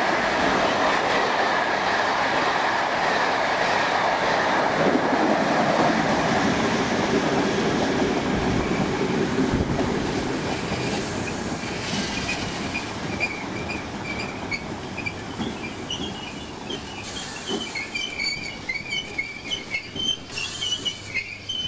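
A passenger train passes through the station fast with a loud, steady rush of wheels on rail, which fades after about eight seconds. An electric multiple unit then moves slowly past, its wheels squealing on and off in high tones and clacking in a regular beat near the end.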